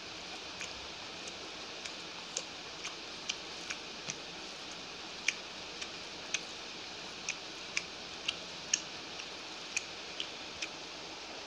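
Close-miked chewing: irregular sharp, wet mouth clicks and smacks, about two a second, over a steady hiss.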